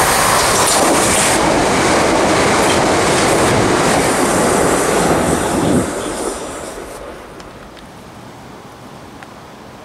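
Southeastern Electrostar electric multiple unit running through the station and passing beneath, its wheels running on the rails. The sound is loud for about six seconds, then dies away quickly.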